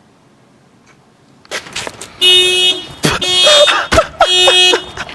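Car alarm going off, sounding in loud, steady-pitched blasts about once a second that start about two seconds in after a few clicks. It was set off by a key-fob button.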